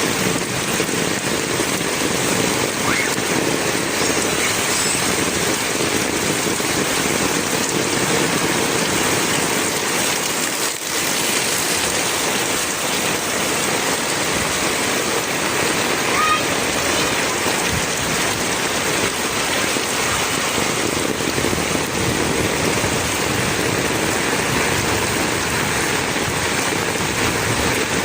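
Heavy rain pouring steadily, a dense unbroken hiss of downpour.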